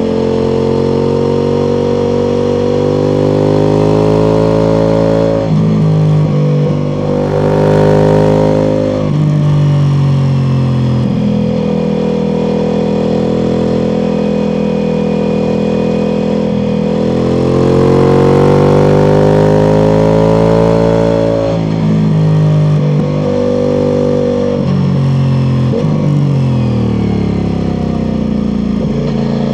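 Ducati Multistrada V4 Pikes Peak's 1158 cc V4 engine through an Akrapovic exhaust, accelerating and changing gear. The pitch climbs under throttle, drops at each shift, and falls in a run of quick steps late on as the bike slows.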